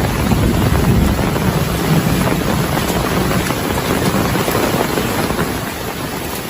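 Heavy rain pouring steadily, with a deep low rumble under the hiss, slowly fading near the end.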